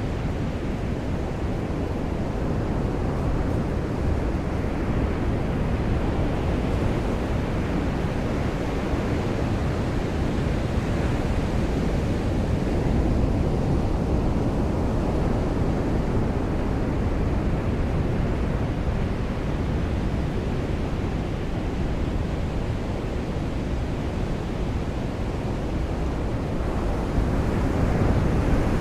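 Surf washing onto a beach with rain falling, a steady low rush with slow, gentle swells.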